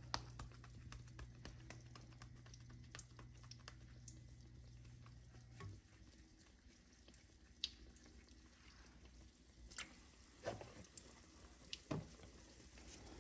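Faint, steady crackle and sizzle of fried dumplings (flattened flour-dough rounds) frying in oil that is kept not too hot, so they cook slowly. A low hum stops about halfway through, and a few louder clicks come in the second half.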